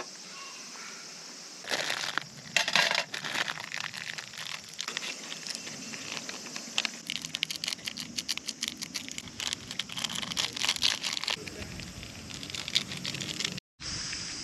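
Irregular crinkling and rustling with many small clicks, like material being handled, over a steady high hiss; the sound cuts out briefly near the end.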